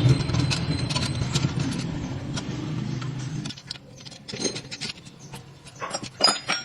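A motor runs with a steady low hum for about three and a half seconds, then cuts off suddenly; after it come scattered clicks and light metal clinks, as of tools or parts being handled.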